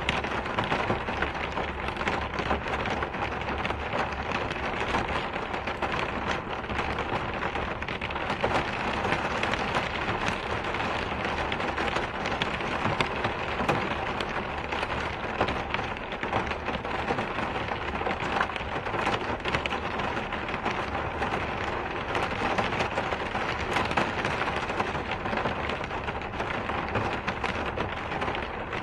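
Steady rain falling, with a dense patter of individual drops striking a surface and no let-up.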